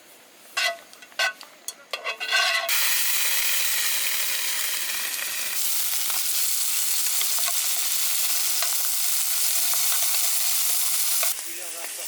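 Food sizzling as it fries in a pan. The sizzle starts abruptly between two and three seconds in and turns quieter near the end. Before it come a few short, pitched chirp-like sounds.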